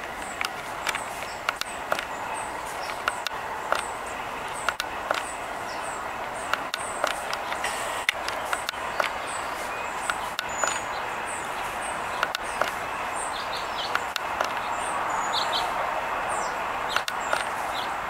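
Outdoor ambience: a steady background hiss, with a small bird's high, thin chirp repeated about once a second and scattered light clicks.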